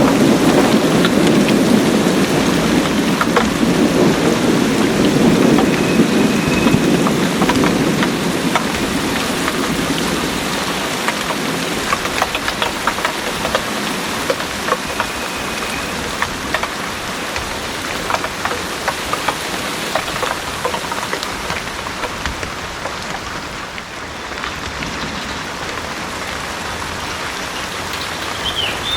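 Heavy rain pouring steadily, with a low rumble of thunder over the first several seconds that fades away, after which close drops tick sharply against a surface through the downpour.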